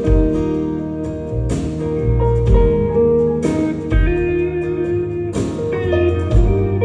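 Live band playing an instrumental passage of a slow ballad: a held, gliding lead guitar melody over bass, with a drum hit about every two seconds.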